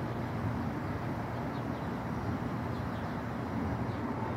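Steady low rumble of a Metra commuter train running out of sight behind the reeds.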